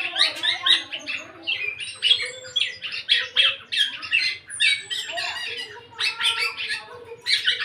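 Young black-naped oriole calling vigorously: rapid runs of short harsh, rasping notes, broken by brief pauses. A few thin, high falling whistles are heard among them.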